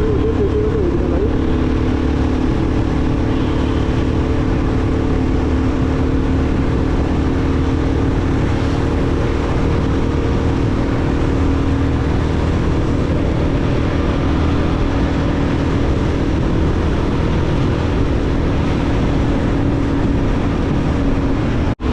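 Royal Enfield Guerrilla 450's single-cylinder engine running at a steady cruising speed, with wind rush over the rider's helmet microphone. The sound cuts out abruptly for a moment near the end.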